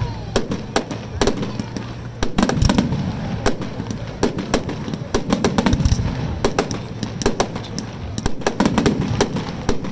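Fireworks display: shells bursting in a rapid, uneven series of sharp bangs and crackles.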